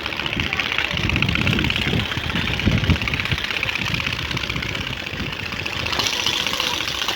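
Motorcycle engine running through a newly fitted aftermarket dual exhaust, with a fast, even firing rhythm and uneven low surges of exhaust rumble.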